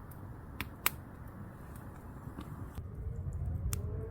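Wood campfire crackling, with a few sharp pops over a low steady rumble, one a second in the loudest. A faint rising tone comes in near the end.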